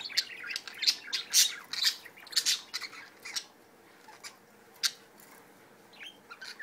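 Budgies chattering and squawking: a rapid run of short, sharp high-pitched calls that thins out about halfway through to a few single chirps.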